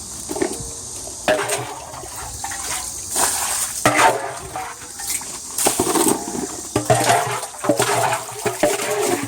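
Stream water pouring and splashing into an earthenware jar, gurgling unevenly as the jar fills.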